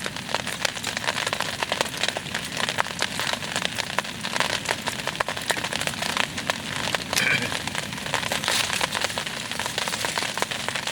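Rain pattering steadily, a dense crackle of drops striking a surface.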